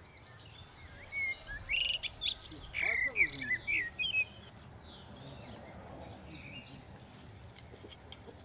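Birds calling close by: a quick run of short chirps and whistled glides starting about a second in and lasting about three seconds, over a steady high insect trill. A few faint clicks near the end.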